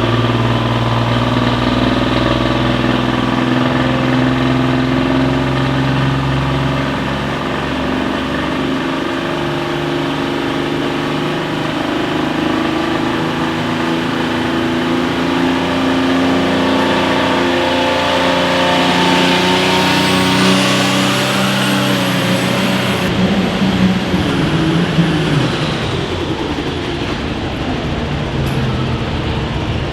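Engine of a competition pulling vehicle running hard at high revs, its pitch holding and shifting in steps. A thin high whine rises about twenty seconds in and falls away a few seconds later, as the deepest part of the engine sound drops out.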